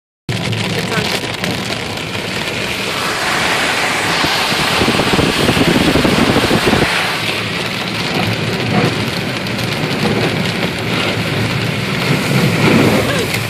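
Hail pelting a car, heard from inside the cabin: a steady din of countless small impacts on the roof and glass.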